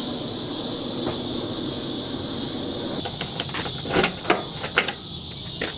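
A handful of sharp clicks and knocks in the second half, over a steady high buzz of insects.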